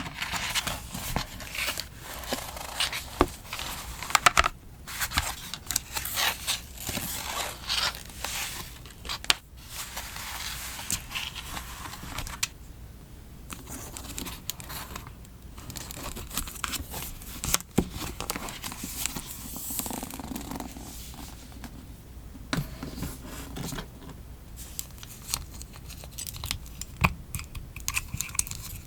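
Close-miked paper craft sounds: stickers and paper peeled off, snipped with scissors and rustled, with small crisp clicks and taps throughout.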